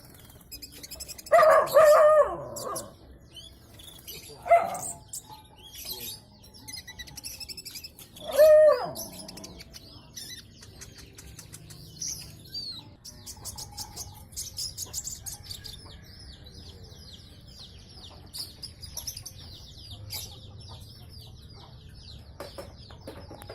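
A small sunbird singing a long, rapid, high-pitched twittering song that runs on without a break through the second half. The loudest sounds are three lower calls from a chicken: a long one about a second in and shorter ones around 4 and 8 seconds in.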